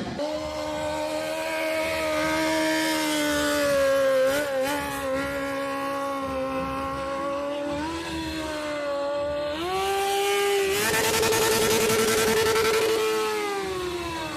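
Motorcycle engine held at high revs with a steady note. It climbs in two steps about two-thirds of the way through, turns harsher at its peak, and drops away at the end.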